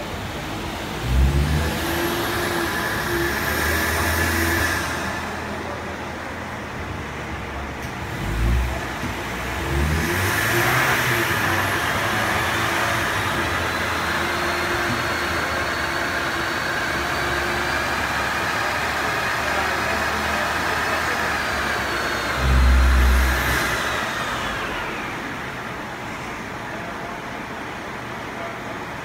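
Ford Mustang's engine on a chassis dynamometer: a couple of short revs, then a long full-throttle pull with a whine that climbs steadily in pitch as the revs rise. Near the end of the pull comes a loud low thump as it lets off, and the engine and rollers wind down.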